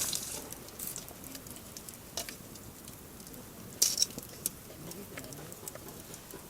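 Wood campfire crackling: sparse small pops and clicks over a faint hiss, with a sharper crackle about four seconds in.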